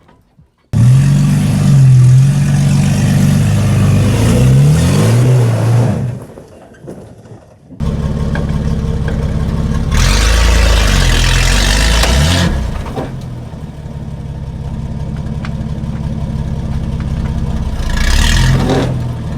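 Nissan GQ Patrol's carburettor TB42 straight-six, running with no exhaust, revving hard and rising and falling in pitch as it works over rocks. The run breaks off twice. Near the end a short louder burst is heard: likely the sound the driver reacts to, which he hopes was the bull bar hitting rock but which may be a front CV joint snapping on the welded front diff.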